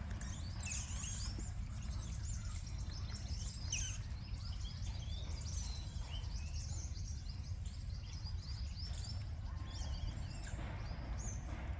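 Many small birds chirping and twittering over a steady low rumble.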